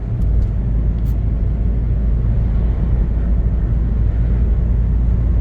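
Steady low rumble of a car driving along a road, with engine and tyre noise.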